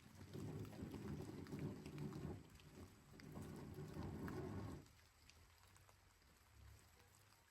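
Faint rain with scattered drip clicks. Two louder, low-pitched noisy surges of about two seconds each come back to back, then stop abruptly about five seconds in.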